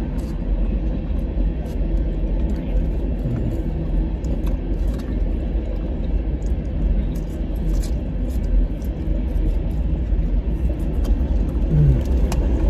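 Steady low rumble of trains on nearby tracks, heard from inside a parked car's cabin, with a few faint clicks.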